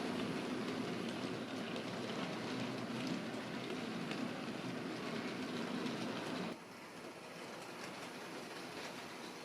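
Hornby OO gauge model LMS Black 5 locomotive running with a train of plank coal wagons: the steady hum of its electric motor and the rattle and ticking of the wheels on model track. About two-thirds of the way through the sound drops suddenly in level and goes on quieter.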